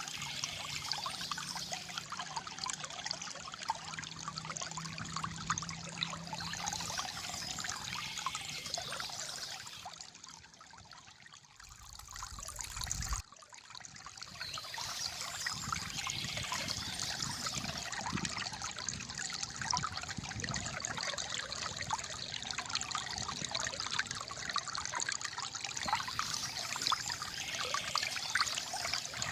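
Calm flowing water trickling and gurgling in a steady wash. About ten seconds in it dips quieter, a brief low rush cuts off sharply about thirteen seconds in, and then the gurgling picks up again.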